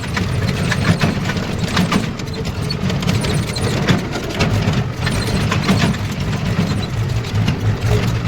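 Tractor engine running steadily, with frequent metallic clanks and rattles.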